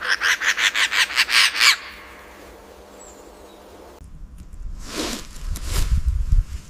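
A rapid chattering call of about a dozen harsh notes, typical of a bird. After a sudden change a few seconds in come scattered rustles and knocks.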